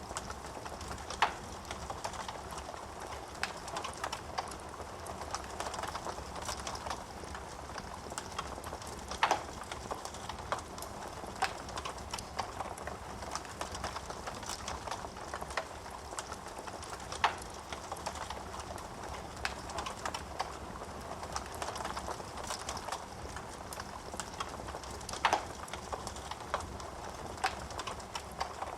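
Wood fire crackling in a fireplace: a continuous stream of small snaps and pops, with a few sharper, louder pops standing out now and then.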